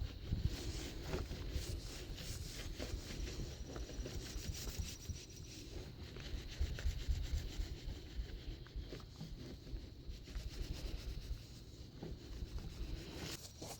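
A cleaning rag rubbing back and forth over a car's painted body, scrubbing off a black tar-like spot loosened with spray cleaner: a steady run of short, uneven wiping strokes.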